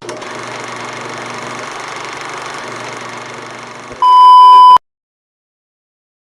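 Steady hiss with a faint hum for about four seconds, then a loud, pure electronic beep of just under a second that cuts off abruptly into dead silence.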